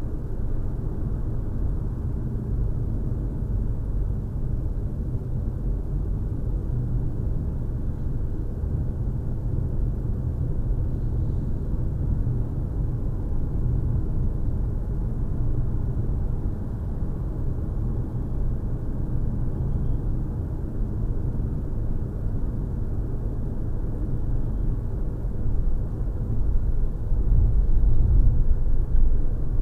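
Steady low engine rumble, growing louder near the end.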